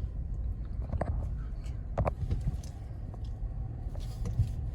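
Car interior road noise: a steady low rumble from the moving car, with a couple of small clicks about one and two seconds in.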